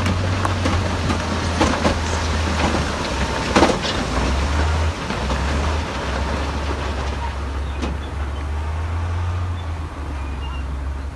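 Heavy diesel earthmoving machinery running, a steady low engine drone that steps up and down in level several times, with scattered knocks and clatter and one loud knock about three and a half seconds in.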